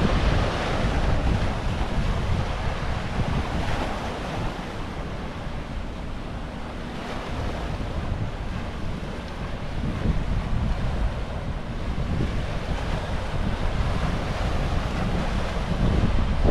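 Pacific Ocean surf breaking and washing in, swelling every few seconds, with wind buffeting the microphone in a constant low rumble.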